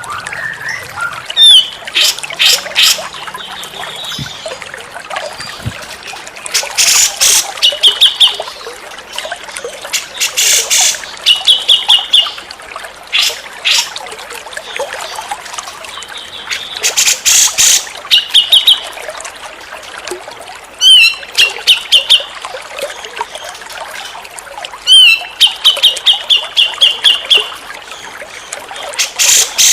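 Grey-cheeked bulbul (cucak jenggot) calling: loud, harsh, scratchy bursts alternating with quick runs of clear, evenly repeated notes, over and over, above a steady hiss.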